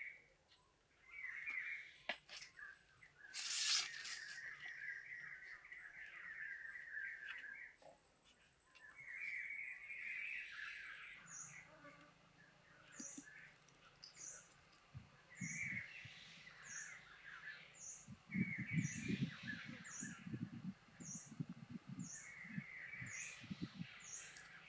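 Birds chirping in repeated short phrases, with one sharp click about three and a half seconds in and a faint high tick repeating about once a second in the second half.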